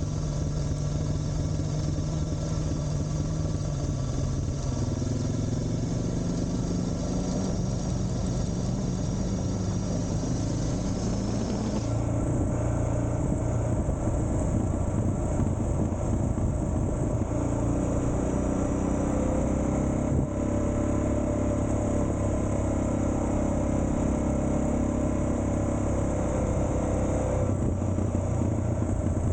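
Suzuki DR650's big single-cylinder four-stroke engine running under way, its pitch rising and falling several times with throttle and gear changes, over a low rumble of wind and tyres.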